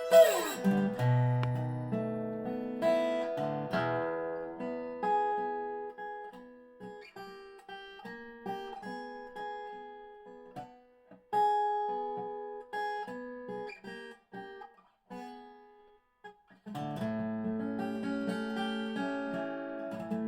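1985 Dobro spider-cone resonator guitar played with a slide: a slide glides down in pitch right at the start, then single notes and short phrases are picked with small gaps between them. About three-quarters of the way in, the playing turns to fuller strummed chords.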